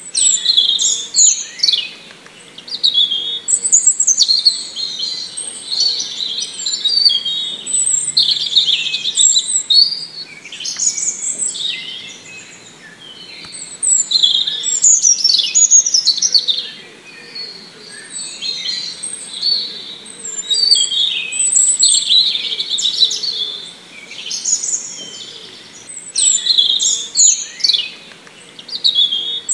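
Birds chirping and singing: a continual run of high, quick chirps and sweeping trills, with a few short lulls.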